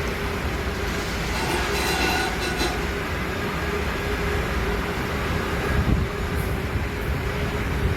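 Rail vehicle rolling along the track: a steady rumble with a constant hum, and brief high wheel squeals about two seconds in.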